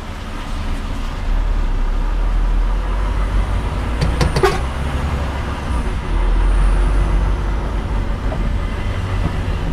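Heavy goods lorry's diesel engine running with a steady low rumble, heard from inside the cab, with a short cluster of clicks about four seconds in.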